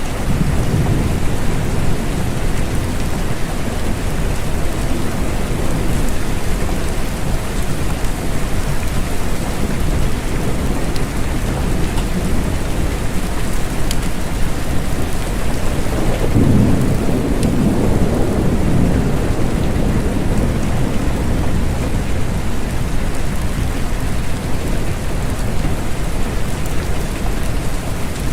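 Steady rain falling, with a low rolling rumble of thunder swelling about two-thirds of the way through.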